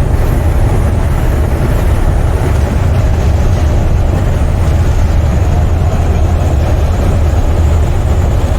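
Semi truck's diesel engine, an International's MaxxForce 13, running steadily under way with road noise: a constant heavy low rumble.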